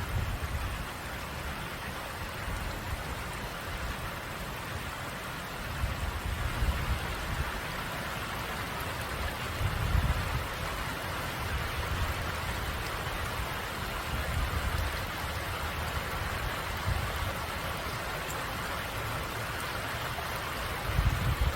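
Steady rush of flowing water and falling rain, with irregular low rumbles that swell a few times.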